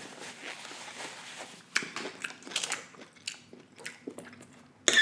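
Close-miked chewing of a mouthful of steak: wet smacks and mouth clicks, with a sharper smack near the end.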